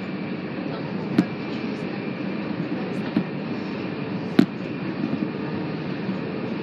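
Passenger train running at speed, heard from inside the carriage: a steady rumble, with a sharp knock about a second in and a louder one about four seconds in.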